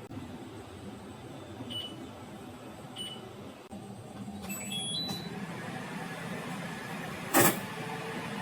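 Microwave oven control panel giving short electronic beeps, then a quick rising run of beep tones as it starts, followed by the steady hum of the oven running. About seven and a half seconds in there is one loud, short, harsh crack.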